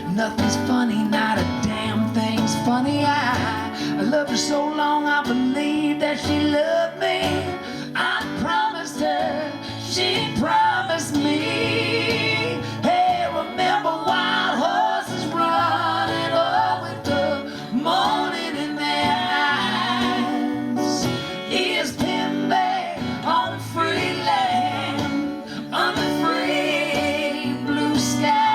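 Live acoustic Americana band playing a slow, sad song, with strummed acoustic guitar and singing.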